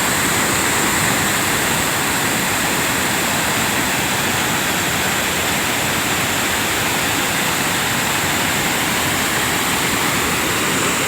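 Rain-triggered volcanic lahar flood rushing down a river channel: a loud, steady rush of churning water, mud and debris.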